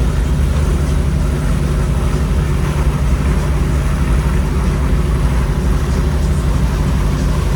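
Boat engine running steadily, a low even hum with a wash of noise over it.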